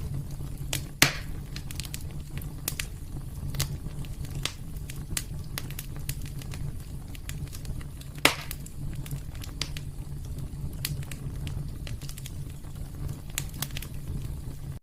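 Wood fire crackling in a fireplace: a steady low rumble of burning under scattered sharp snaps, with two louder pops, about a second in and about eight seconds in.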